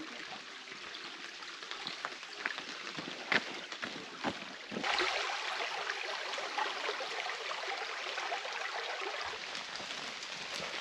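Water running in a stream, a steady rushing noise with a few sharp clicks in the first half. It grows louder and fuller about five seconds in.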